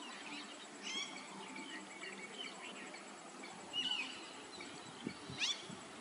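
Several birds chirping and calling over a steady background hiss: short high chirps about a second in and again near four seconds, and a quick whistled sweep shortly before the end.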